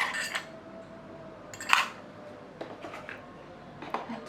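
Small souvenir objects being handled: a few separate clicks and knocks, the loudest about two seconds in.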